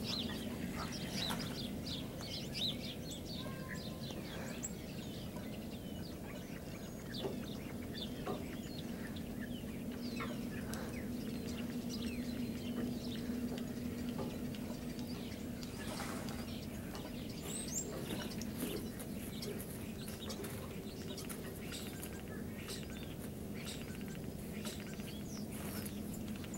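Birds chirping over and over in short calls, over a steady low hum.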